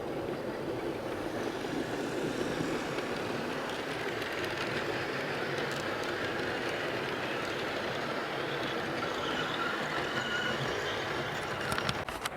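Model Class 67 locomotive running round a model railway layout with its coaches, a steady whirr along the track. A faint thin whine comes in about two-thirds of the way through, and there is a sharp click or two near the end.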